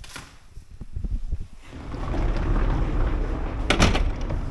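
A few soft knocks, then a steady low rumble from about two seconds in, with one sharp knock like a door or cupboard shutting near the end.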